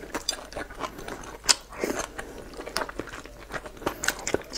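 Close-miked mouth sounds of a person eating boiled dumplings in chili oil: wet chewing with many small clicks, one sharper click about a second and a half in, and a fresh bite into a dumpling near the end.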